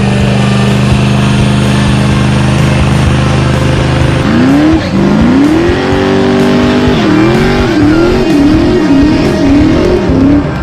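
Car engine revving hard during a burnout with the rear tires spinning in smoke: held at a steady high pitch for about four seconds, then sweeping up and wavering up and down about twice a second as the car spins donuts.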